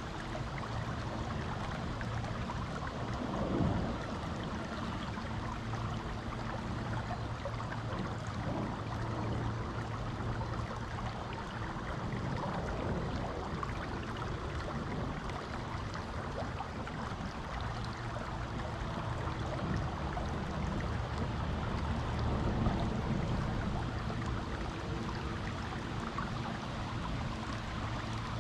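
River water flowing over rocks: a steady rushing with a low rumble underneath.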